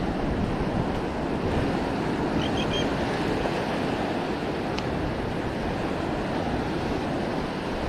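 Steady wash of ocean surf with wind buffeting the microphone. A brief faint high chirp sounds about two and a half seconds in, and a single light tick about five seconds in.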